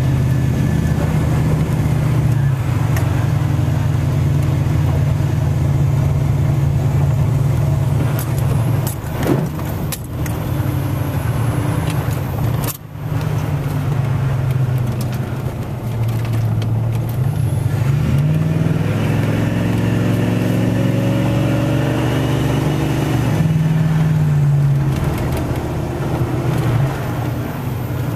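Truck engine and road noise heard from inside the cab while driving, a steady low drone. About two-thirds of the way through, the engine note climbs as the truck accelerates, then drops back.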